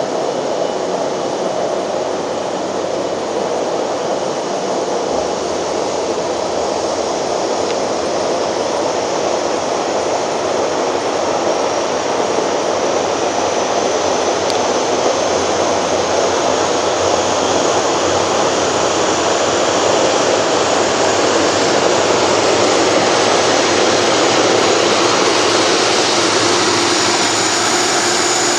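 Jet aircraft engines running: a steady, loud rush that grows slowly louder, with a high whine rising in pitch over the second half.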